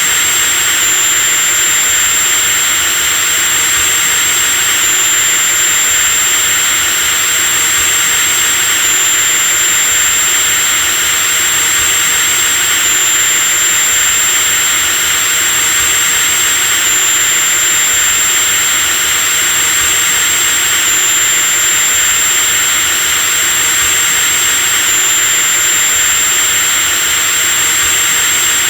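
Electric drill running steadily at full speed: a high, constant whine over a dense hiss, with a slight hitch in the whine about every four seconds.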